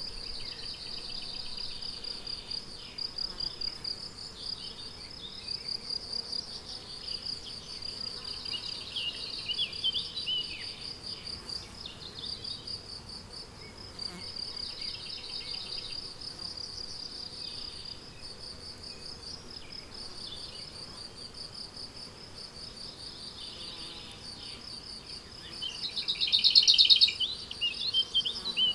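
Crickets chirping in a steady, high, pulsing trill, with short bursts of songbird calls over it; the birdsong is loudest near the end.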